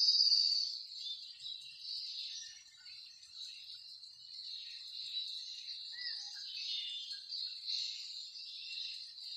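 Chicken shami kebabs shallow-frying in hot oil in a pan: a steady high sizzle with irregular crackles, loudest in the first half-second.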